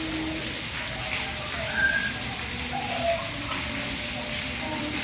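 Steady rush of running water, with faint, brief voices scattered over it.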